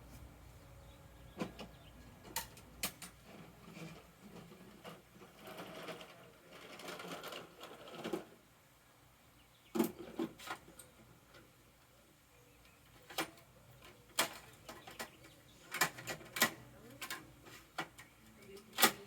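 Plastic parts of a Bruder toy garbage truck being worked by hand: irregular sharp clicks and knocks, with a rattling, rustling stretch a few seconds in.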